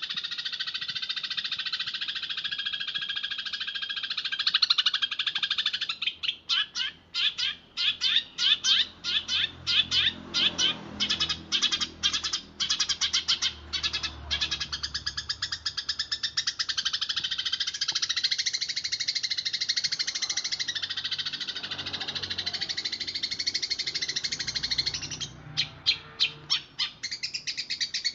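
Eurasian tree sparrows chattering in a fast, dense stream of chirps. The stream breaks into rapid separate chirps for a stretch in the middle and again near the end.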